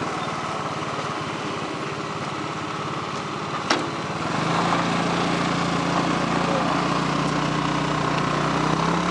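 Motorcycle engine running steadily, at first quieter and idling-like. A sharp click comes a little before halfway, then from about halfway the engine runs louder at an even pitch.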